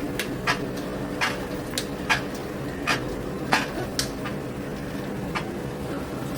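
Irregular sharp clicks and taps, one or two a second, from budgies moving and pecking about their cage, over a steady low hum.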